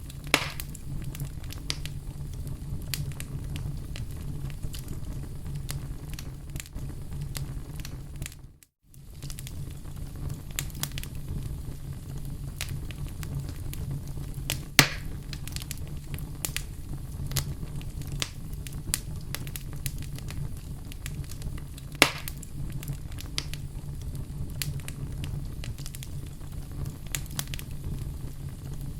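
Wood fire crackling, with a steady low rumble under scattered small crackles and three loud pops: right at the start, about halfway, and about three-quarters through. The sound drops out briefly to silence about nine seconds in.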